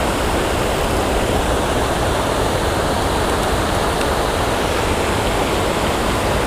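Steady rushing of creek water pouring over a dam spillway waterfall, close by.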